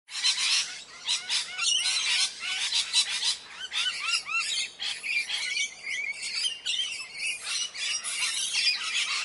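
Many birds calling at once: a dense, overlapping chatter of short chirps and squawks.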